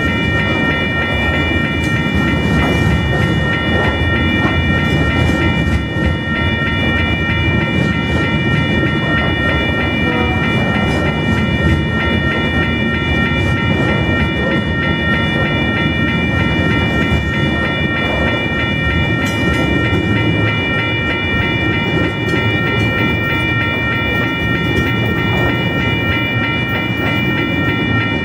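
Coal hopper wagons of a Tasrail freight train rolling steadily past over a level crossing, a continuous rumble with wheel clatter over the rails. Over it a steady, rapidly pulsing high ringing from the level-crossing warning bells runs throughout.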